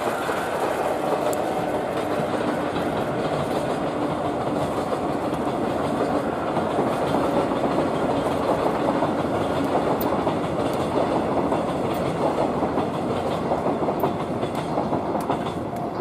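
Freight train of Hoki 10000 hopper wagons hauled by a Chichibu Railway Deki electric locomotive rolling past: a steady run of wheel noise on the rails, with scattered sharp clicks from wheels over rail joints, more of them in the second half.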